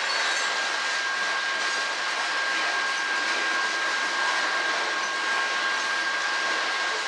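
Coal hopper cars of a freight train rolling past, a steady rushing of steel wheels on rail with a thin, unchanging high ring running through it.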